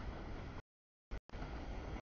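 CSX mixed freight train rolling past a grade crossing, a steady rumble of cars on the rails. The audio drops out to dead silence about two-thirds of a second in, gives a short blip, and comes back about a second and a quarter in.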